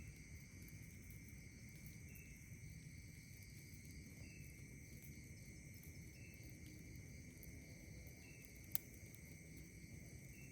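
Faint, steady chorus of night insects trilling, with a short chirp repeating about every two seconds. A single sharp pop from the campfire comes near the end.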